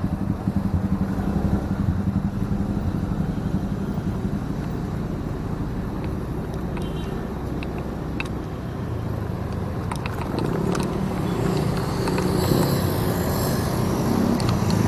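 Motorcycle engine running steadily, with a few light clicks around the middle and the engine noise growing a little louder near the end.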